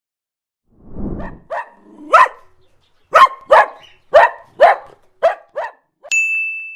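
A dog barking: a low sound about a second in, then about eight short, sharp barks in a quick series.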